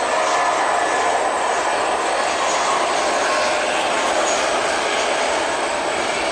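Airliner engines running loud and steady, a broad rushing noise that eases slightly near the end.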